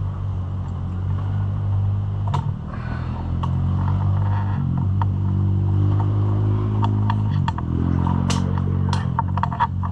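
Scattered clicks and light knocks of hands and parts working a rubber intake tube onto a dirt bike's carburetor, more of them in the last few seconds, over a steady low background hum.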